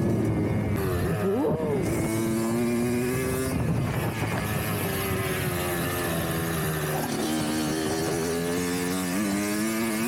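Dirt bike engine running, its note shifting up and down as the throttle is worked, with a short rising-then-falling rev about a second and a half in.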